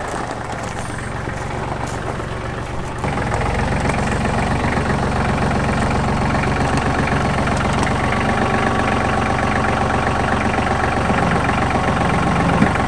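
A vehicle engine idling steadily, getting louder about three seconds in.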